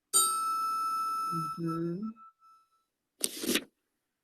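A sudden steady ringing tone, like a beep or chime, that fades out over about two seconds, with a brief voice over its end and a short burst of hiss about three seconds in.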